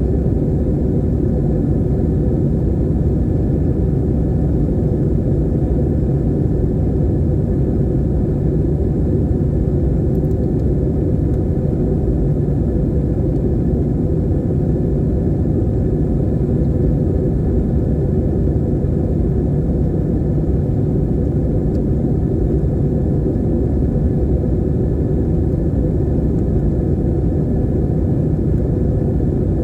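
Airplane cabin noise in flight: a steady, unbroken low rumble of engines and airflow.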